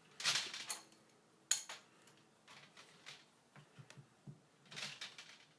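Short metallic scrapes and clicks of a flare nut being tightened onto a valve fitting, in three brief bursts with small clicks between.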